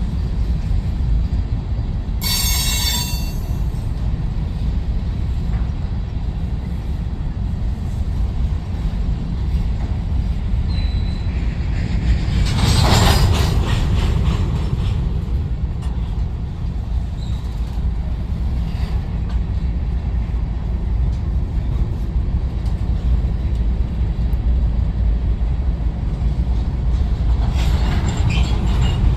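Freight train rolling past with a steady low rumble of wheels on rail. A brief high-pitched squeal comes about two seconds in, and the sound swells louder about thirteen seconds in.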